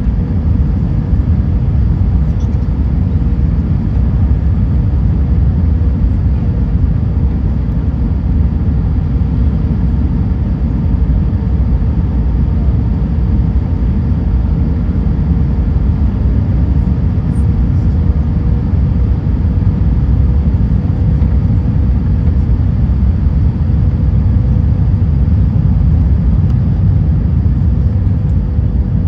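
Steady rumble of an Airbus A320 heard inside the cabin at a window seat, deep and unbroken, with a faint steady hum riding over it.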